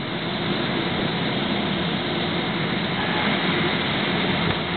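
Steady engine and rushing airflow noise of a Boeing 767 airliner, heard from inside the passenger cabin.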